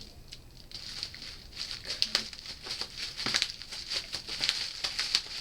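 Bubble wrap crinkling and rustling as it is handled and unwrapped, with irregular small crackles.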